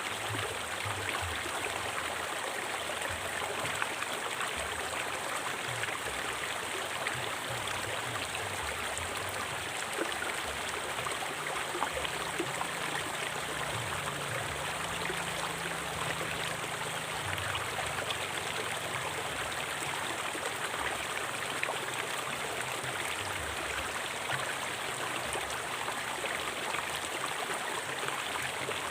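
River water flowing steadily, a continuous rushing and babbling with no break.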